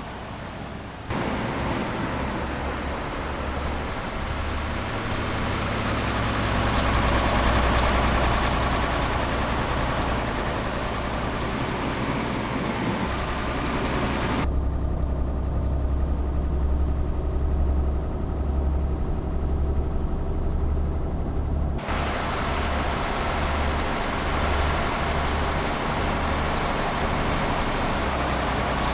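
Tanker truck's engine running steadily while driving, a deep continuous hum with road and wind hiss over it. The sound steps up about a second in, and the hiss cuts away for several seconds in the middle while the hum carries on.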